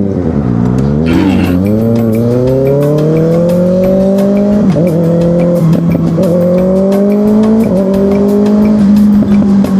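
Motorcycle engine pulling away and accelerating, its pitch climbing steadily with brief wobbles at a few points.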